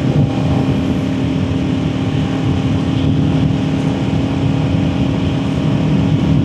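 Kawasaki Ninja 400 parallel-twin engine running at a steady cruise, held at an even pitch with no revving, as it is ridden gently in eco mode.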